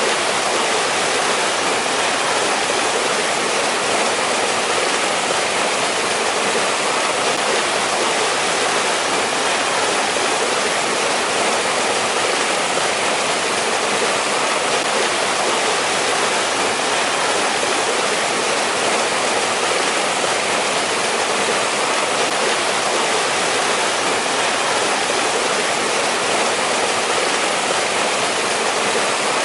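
Mountain stream in a winter valley rushing and splashing over rocks: a steady, even rush of water with no let-up.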